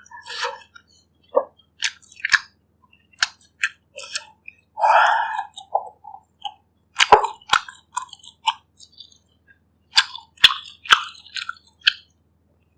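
Close-miked eating of bak kut teh, pork ribs in herbal broth: irregular chewing with sharp wet mouth clicks and smacks, and a longer wet, slurping-like stretch about five seconds in.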